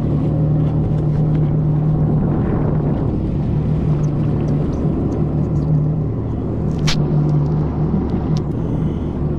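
1800cc jet ski engine running steadily under way, a constant low drone. A brief sharp crack or splash about seven seconds in.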